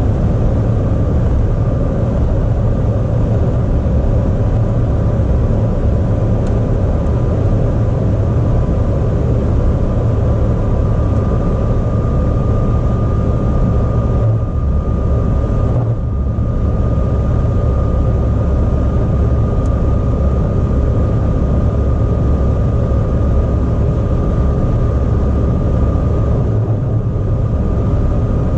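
Car engine and road noise at speed, loud and steady, with a faint steady whine.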